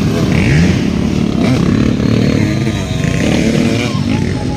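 Motocross bikes' engines revving hard, several overlapping engine notes rising and falling in pitch.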